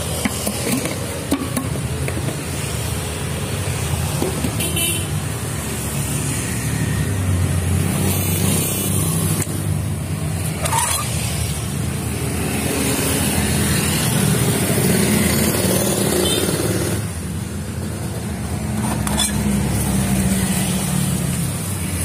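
Road traffic passing: motor vehicle engines running steadily, with a few brief horn toots.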